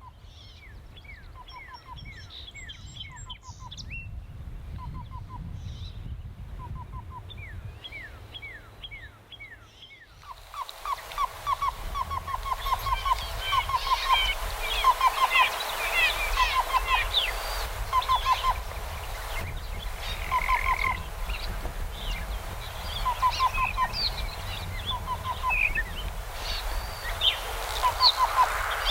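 Black-billed cuckoo singing soft, hollow "boop" notes in cadenced groups of two to five, one group every second or so, with other birds singing over it. About ten seconds in, the background grows louder and busier and the cuckoo gives a longer run of about eight notes.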